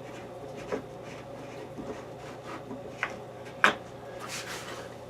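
Light clicks and scrapes of a quarter-20 cap-head bolt being fiddled into a threaded hole in a wooden jig, the sharpest click a little over three and a half seconds in, over a steady low hum.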